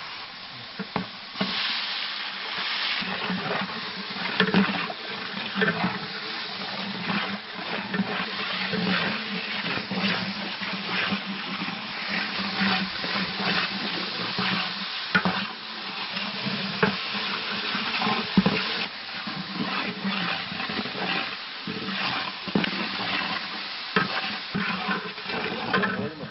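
Onion, green chillies and garlic paste frying in oil in a large aluminium pot, with a steady sizzle. A metal ladle stirs and scrapes against the pot, making frequent clicks and knocks.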